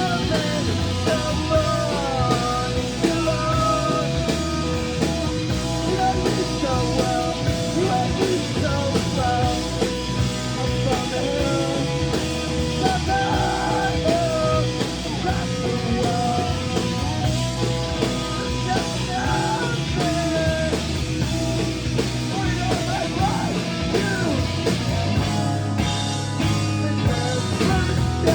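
Rock band playing live, with a lead line of bending notes over steady bass and drums.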